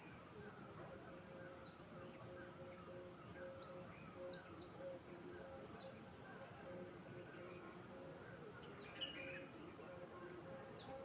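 Faint bird song: short, high chirping phrases, each sliding down in pitch, repeated every two to three seconds over a steady low background hum.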